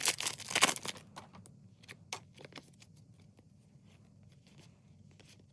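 A foil trading-card pack being torn open and crinkled for about the first second, then faint ticks and rustles of cards being handled.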